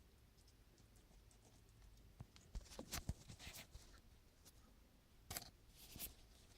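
Faint handling noises in a quiet room: a cluster of small clicks and rustles about two seconds in, then a few more near the end.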